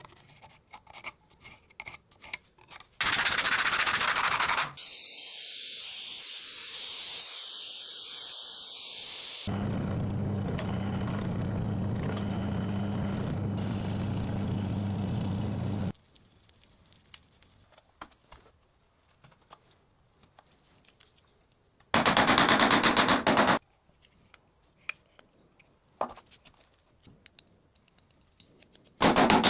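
Workshop sounds of shaping a steel saw-blade knife, in short separate takes: light clicks and taps, a brief loud grinding burst, several seconds of a steady motor running, and near the end a burst of very rapid rasping strokes.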